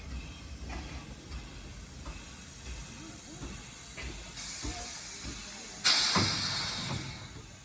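Steam locomotive letting off steam over a low rumble: a hiss starts about halfway through, then a sudden, much louder blast of steam near the end that fades away.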